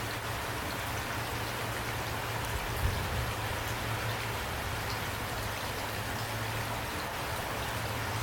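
Steady rain falling, with a low steady hum underneath and a slight thump about three seconds in.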